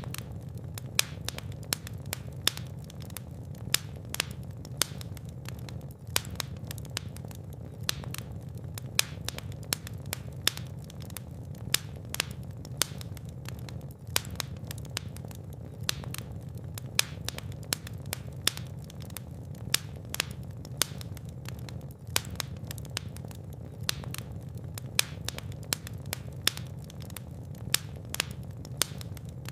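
Fireplace fire crackling, with sharp irregular pops and snaps several times a second over a steady low rumble of flame.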